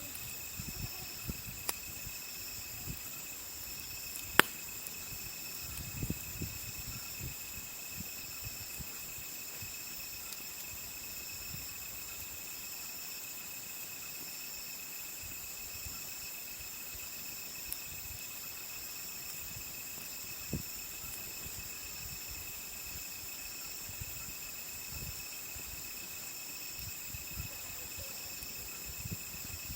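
Crickets and other insects chirping steadily at several constant high pitches, one of them pulsing. Over this a wood campfire crackles with scattered small pops, one sharp crack about four seconds in.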